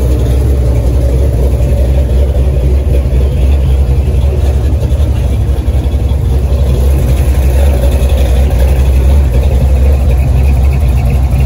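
A car engine idling, loud and steady, with a deep low rumble.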